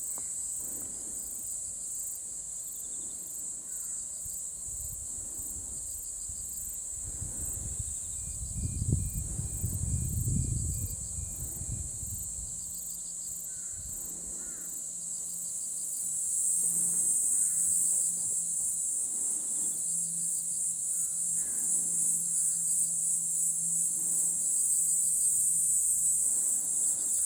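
A chorus of insects chirring in a steady high band, growing louder about two-thirds of the way through. A low rumble swells and fades about a third of the way in.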